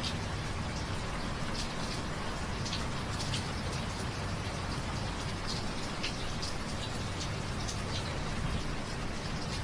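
Steady rain falling, a constant hiss with many separate drips pattering out sharply at irregular moments.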